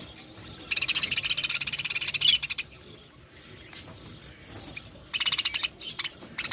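Budgerigars making rapid, raspy, stuttering calls in bursts: a long one starting just under a second in and lasting nearly two seconds, then a shorter one about five seconds in.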